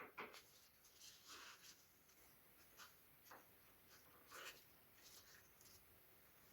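Faint scratching and rubbing strokes with a few light clicks, like hands working a small workpiece, the sharpest click right at the start.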